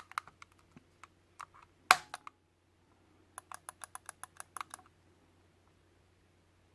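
Small sharp plastic clicks from a Logitech Anywhere Mouse MX. First comes an irregular scatter with one louder snap about two seconds in, then a quick even run of about ten clicks, roughly seven a second: the mouse button being clicked repeatedly, as when a repaired double-click fault is tested.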